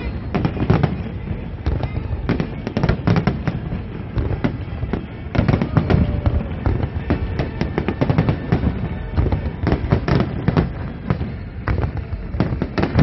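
Aerial fireworks display: a dense, unbroken run of bangs and crackles as many shells burst close together.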